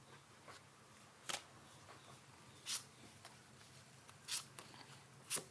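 Tarot cards being handled: four short, soft swishes or snaps of card on card, about a second and a half apart, the last one the loudest.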